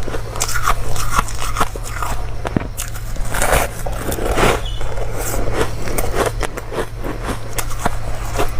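Close-miked crunching of ice being bitten and chewed: a dense, irregular run of crackling crunches over a steady low hum.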